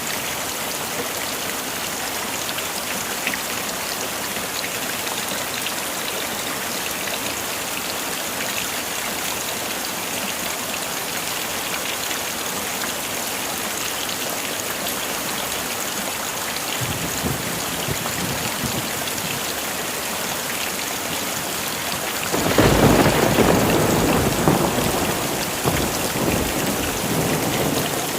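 Heavy rain falling steadily. A faint roll of thunder comes in past the middle, then a loud thunderclap and rumble near the end that slowly dies away.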